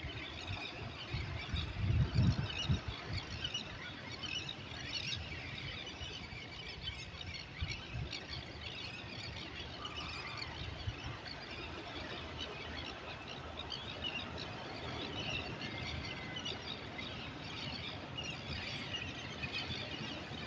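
Coastal ambience: many birds chirping and calling in quick, overlapping squeaky notes over a steady hiss of sea. A few low thumps come about two seconds in.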